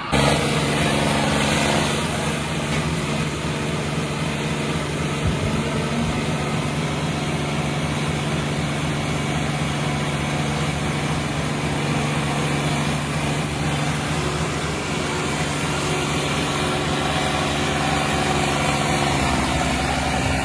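Eicher 557 tractors' three-cylinder diesel engines running hard and steadily, as in a tractor tug-of-war pull, with the engine note shifting slightly near the end.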